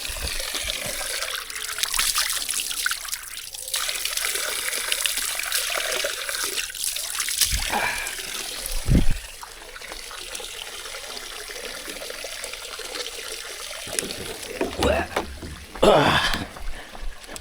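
Water trickling steadily, with a few knocks and splashes around the middle and a short, louder wavering sound near the end.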